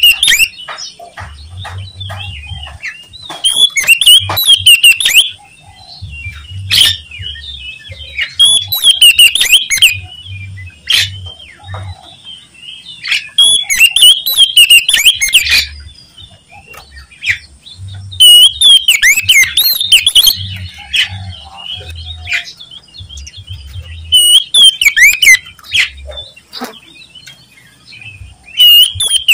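Oriental magpie-robin (kacer) singing loudly in fast, warbling phrases of a second or two, repeated every few seconds, with short clicks and calls between the phrases.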